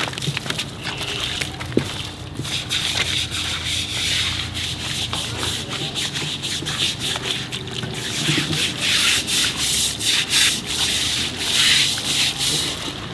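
Repeated rough scraping or rubbing strokes at an uneven pace, like hand sanding or scrubbing, getting louder and busier in the second half, over a low steady hum.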